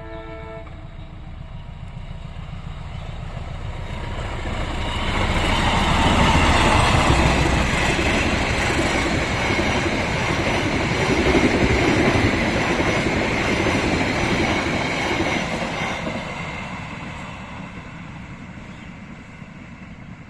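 A diesel locomotive's horn cuts off about half a second in. Then a train rolls past close by: the rumble and clatter of the wheels on the rails builds up, is loudest for several seconds in the middle, and fades away.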